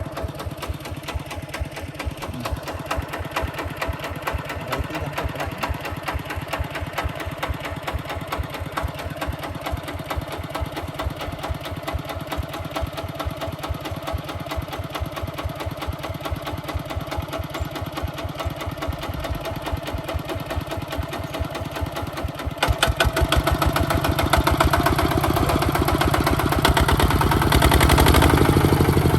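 Hinota HG Gold 155 DI tractor's diesel engine running with an even, rapid chugging. About three quarters of the way through it gets clearly louder, as the engine is revved up.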